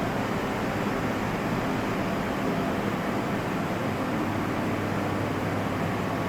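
Steady machinery noise in a printing plant: a continuous even din with a low hum, unchanging throughout.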